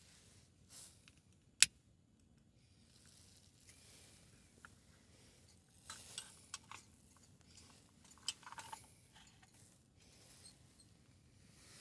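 Wood campfire crackling softly, with scattered pops and one sharp, loud pop about a second and a half in.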